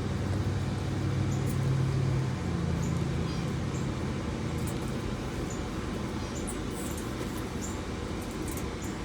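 Steady rushing noise from a fan blowing on the pen. A low droning hum fades out after about three seconds, and faint, short high-pitched squeaks come now and then.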